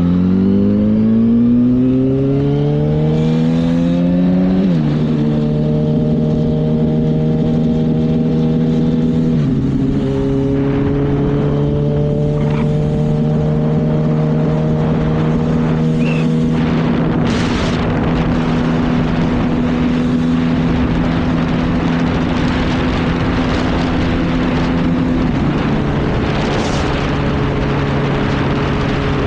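Sport motorcycle engine accelerating hard, its pitch climbing then dropping sharply at two upshifts, about 5 and 9.5 seconds in. It then settles into a steady cruise, with wind rush building over the second half and a small drop in pitch near the end.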